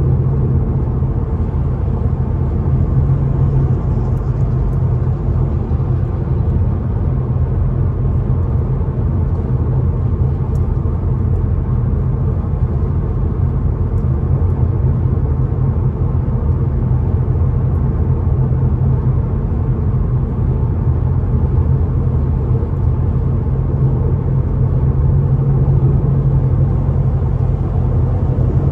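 Stock Ford Mustang GT's 5.0 V8 running at a steady cruise, a low, even drone with road noise and no revving. Heard from the cabin, on the factory exhaust that the owner finds too quiet.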